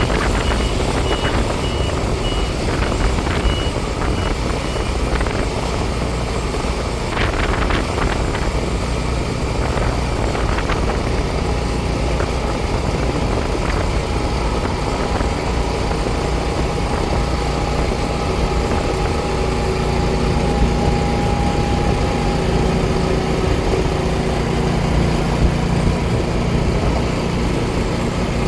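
Farm machinery engine running steadily, with a reversing beeper's repeated beeps for the first few seconds.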